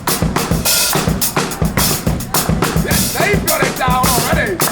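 Live band playing, with a drum kit keeping a steady beat on bass drum and snare under the melody instruments.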